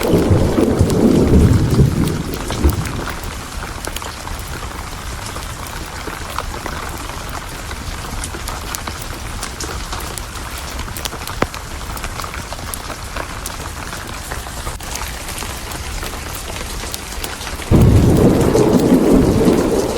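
Steady heavy rain with thunder: a low rumble dies away over the first couple of seconds, and another rumble starts suddenly near the end. Scattered sharp crackles run through the rain.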